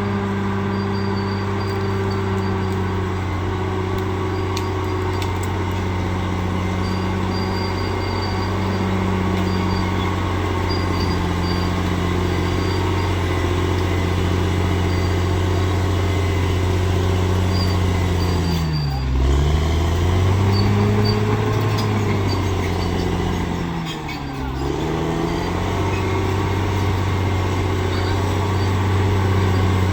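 Bulldozer's diesel engine running steadily, its pitch dipping sharply and recovering twice, about two-thirds of the way in and again some five seconds later.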